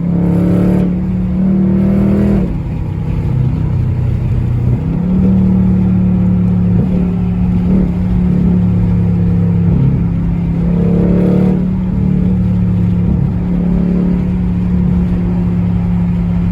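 Dodge Charger Scat Pack's 392 Hemi V8, on its stock exhaust, running steadily while driving. A short throttle swell comes near the start and another about eleven seconds in. The engine note drops for a couple of seconds around three seconds in, then climbs back.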